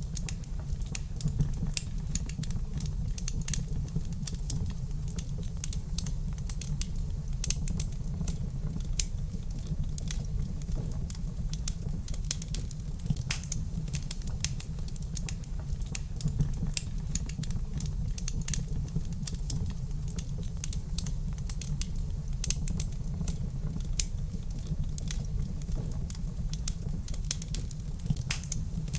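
Wood fire crackling in a fireplace: dense, irregular sharp pops and snaps over a steady low rumble of the burning fire.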